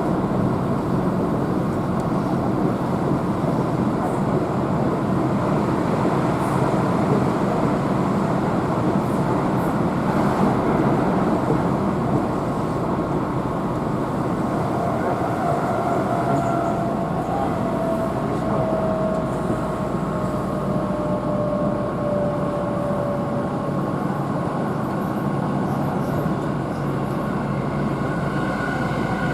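Keihan electric train running steadily, heard from inside the passenger car: a continuous rumble of wheels on rail. About halfway through, a thin whine drifts slowly down in pitch for several seconds.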